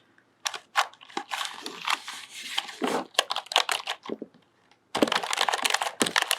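A computer keyboard worked with long fingernails, giving irregular clicking keys mixed with scratchy rubbing. About a second of near silence falls just past the middle, then a dense flurry of clicks and rubbing follows.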